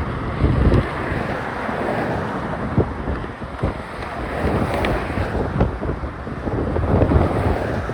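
Heavy wind buffeting a phone's microphone that is half-covered with a sock, in uneven low gusts and rumbles.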